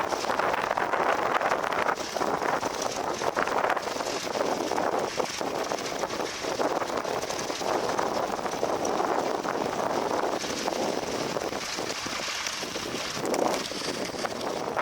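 Vintage tractor engines running steadily while ploughing, partly covered by wind buffeting the microphone.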